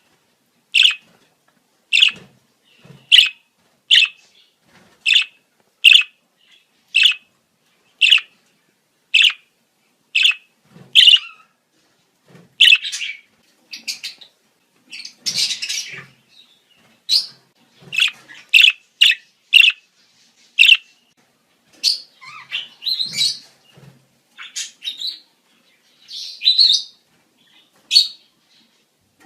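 Budgerigars' breeding-season calls: short, sharp chirps about once a second, turning into a busier mix of chirps and chatter about halfway through.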